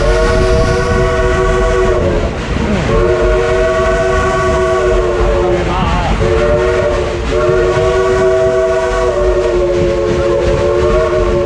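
Steam locomotive's chime whistle blowing several notes at once, three long blasts with short gaps between them, over the low rumble of the moving train. The locomotive is the narrow-gauge Baldwin 2-8-2 No. 192.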